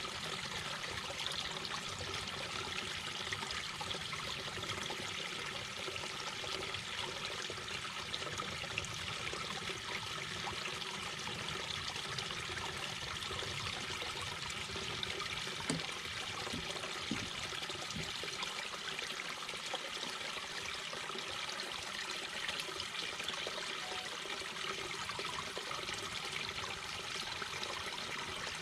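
Mountain brook babbling steadily over stones, a continuous trickling rush of water with small splashes and no change in level.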